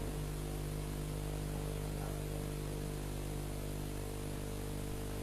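Steady electrical mains hum, a stack of unchanging low tones, with a light background hiss.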